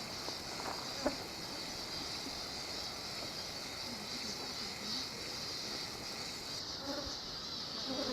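Steady, high-pitched chorus of chirping wildlife, with a few faint lower calls.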